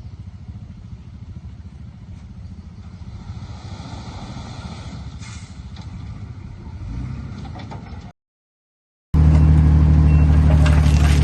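Heavy diesel machinery running with a steady low, pulsing rumble that swells briefly about seven seconds in. It cuts off abruptly for about a second, then a much louder steady drone with strong low tones starts.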